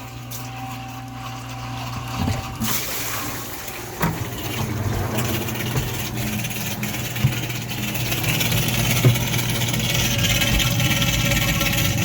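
Dishwasher running with the door open: its 1/8 HP reversing induction pump motor hums steadily while water sprays and splashes inside the tub. The water noise comes in a few seconds in and grows louder toward the end, with a couple of brief knocks.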